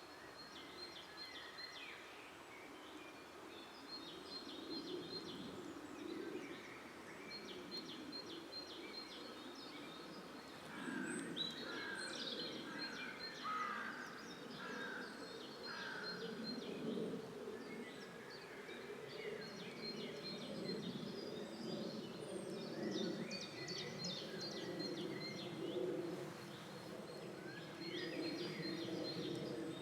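Several birds singing in a forest, with rapid series of high chirps and trills repeating throughout, over a steady low background rumble.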